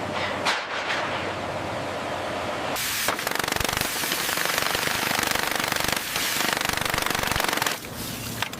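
Rapid, steady mechanical hammering from a pneumatic hammering tool, starting about three seconds in after a duller clatter and stopping near the end.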